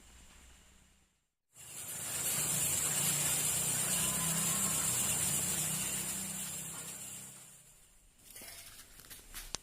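A loud steady hiss that comes in suddenly after a brief dropout, runs for about six seconds and then fades away, with a few faint clicks near the end.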